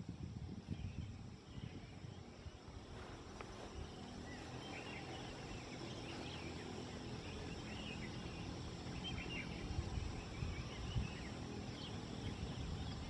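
Wild birds chirping here and there over wind rumbling on the microphone, with a steady high insect drone underneath.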